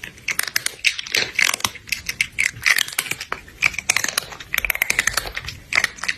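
Fast computer keyboard typing: a dense, irregular run of key clicks.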